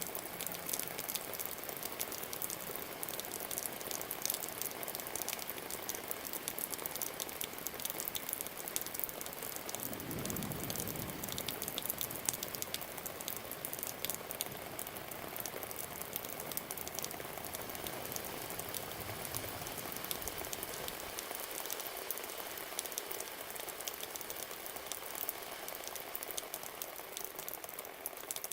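Steady rain falling, with a dense patter of close drops ticking. About ten seconds in there is a brief low rumble, and a fainter one follows near twenty seconds.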